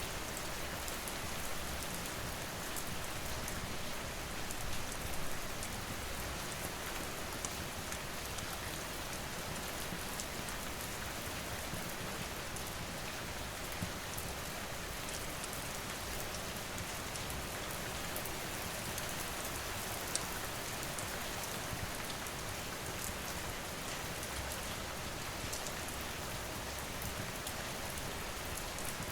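Steady rain falling, with a few sharp clicks now and then.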